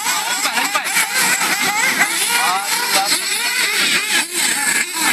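Radio-controlled cars' electric motors whining, their pitch sweeping up and down quickly and repeatedly as they accelerate and slow, over a steady hiss.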